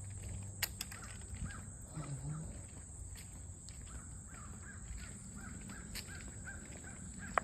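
A bird calling, a run of short repeated calls that come thicker in the second half, over a steady high-pitched hiss.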